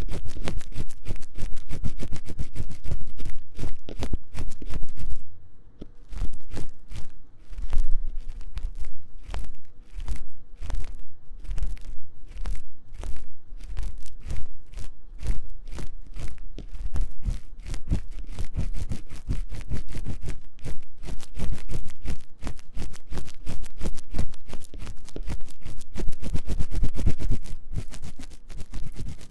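Ear-cleaning tool scratching fast and hard inside a 3Dio binaural microphone's ear, a dense run of quick scraping strokes. There is a brief pause about five seconds in.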